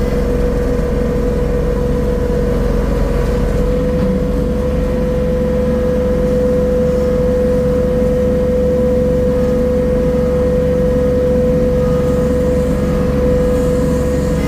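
Engine of a soil-tilling machine running steadily at a constant speed, one unchanging pitch throughout.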